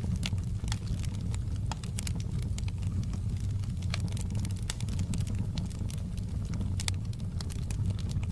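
Wood fire burning in a fireplace: a steady low rumble with frequent sharp crackles and pops at irregular moments.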